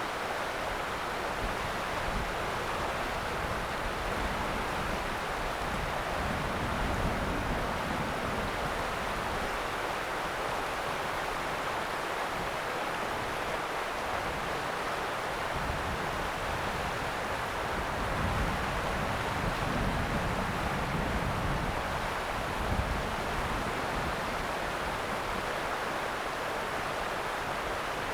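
The Ōta River's water flowing in a steady rush, with low rumbles that come and go.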